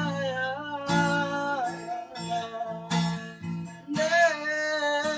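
A song: a guitar strummed under a singing voice, with long held notes that waver in pitch, the lyric "sayang" among them.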